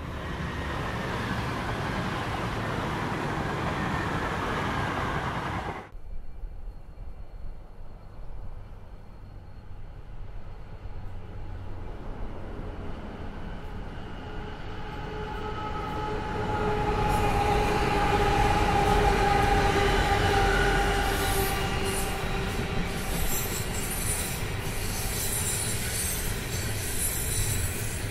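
A passenger train rushing past at speed, cut off abruptly about six seconds in. Then a coal train hauled by diesel locomotives rolls past with a low rumble, its wheels squealing in steady tones that grow louder, joined by shrill high squeals and scrapes about halfway through.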